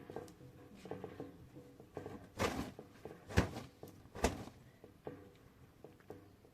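Objects being handled: a string of light knocks and clicks, with three louder clatters in the middle.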